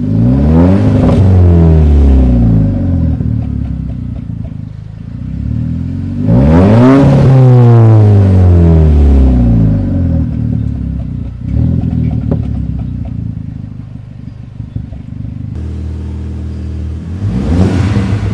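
Mk2 Audi TT's turbocharged 2.0 TFSI four-cylinder, run with its centre muffler removed, revving under acceleration with the engine pitch climbing and falling back several times. Between the pulls the exhaust gurgles and crackles on the overrun.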